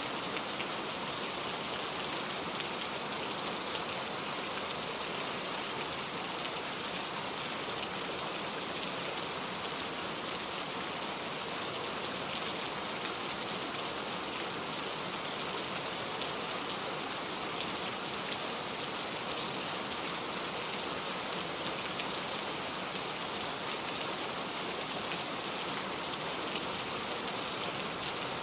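Steady rain falling, an even hiss with dense fine patter of drops, unchanging in level.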